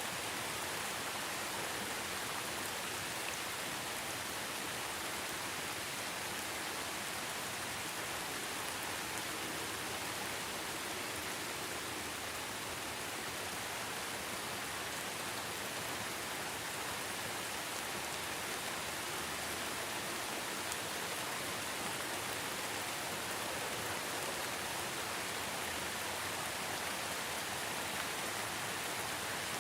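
Steady rain falling: an even, unbroken hiss, strongest in the upper frequencies.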